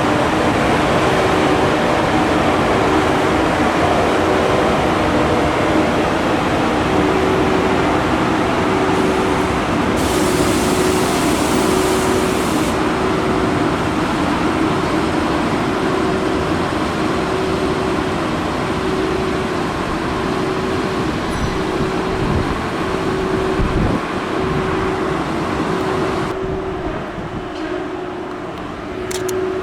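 A train running past, a long steady rumble of wheels on rail with a low tone pulsing at a regular beat under it; the sound thins out near the end.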